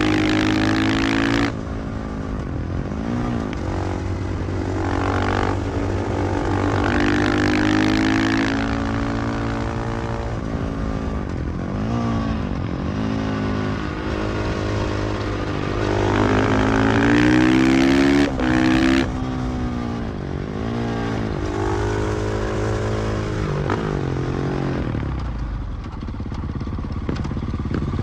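KTM 500 EXC-F supermoto's single-cylinder four-stroke engine under way, its pitch climbing under throttle and falling back again several times, with a brief sharp cut about two-thirds of the way through.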